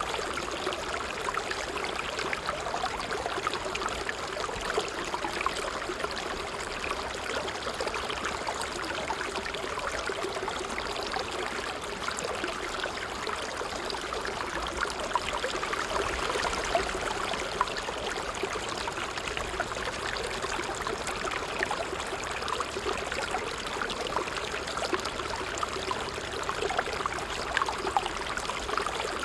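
Water trickling steadily, a continuous bubbling splash of many small drips and ripples with no pauses.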